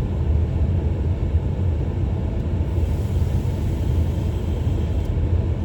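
Steady low rumble of a car driving slowly on a snow-covered road, heard from inside the cabin: engine and tyre noise.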